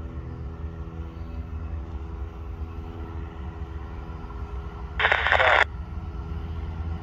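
Brightline diesel trainset approaching with a steady low drone, and one short, loud horn blast about five seconds in.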